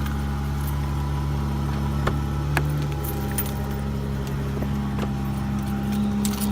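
Car engine idling steadily after a cold start, with a few light clicks and jingles over it.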